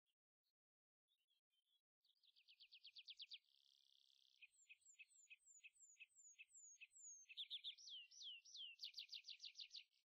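Faint birdsong: a songbird singing a varied song of fast trills of repeated falling notes, a short buzzy stretch and looping whistled notes, starting about two seconds in.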